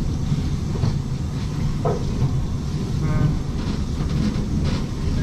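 Steady low rumble of a passenger train running, heard from inside the sleeper coach as its wheels roll on the rails.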